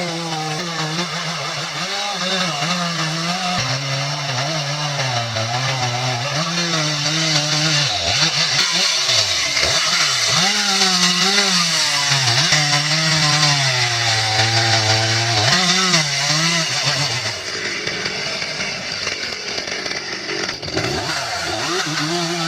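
Chainsaw engine running hard while cutting wood. Its pitch repeatedly dips and recovers as the chain bites into the cut and eases off.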